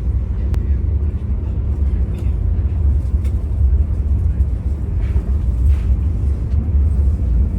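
Steady low rumble of an SJ passenger train running, heard inside the carriage, with a few faint clicks.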